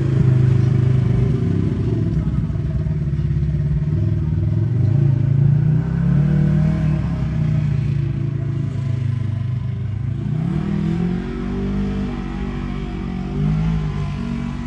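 A motor vehicle engine running close by, its pitch rising and falling as it is revved, with a climb in revs about ten seconds in.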